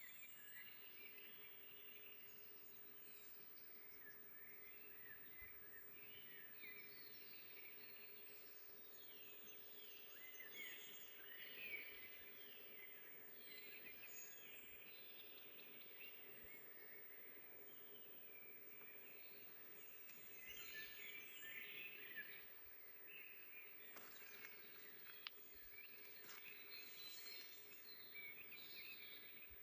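Faint forest ambience with several small birds singing and chirping in quick, high notes throughout, over a soft noise bed with a faint steady hum underneath.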